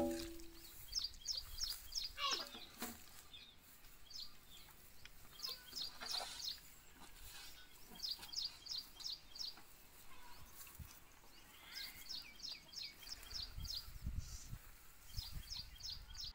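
A small bird singing repeatedly, each phrase a quick run of four or five high chirps, recurring every second or two. A single metal clank with a short ring right at the start is the loudest sound.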